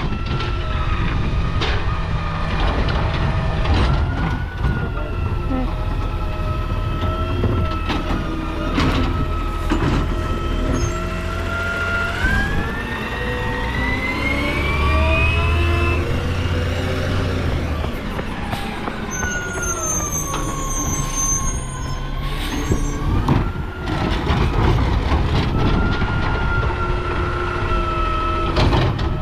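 Garbage truck running its engine and hydraulics through a pickup, with a steady pitched whine. About twelve seconds in the whine rises as the engine revs up, then falls back a few seconds later. Scattered clanks and thuds come from the cans and packer.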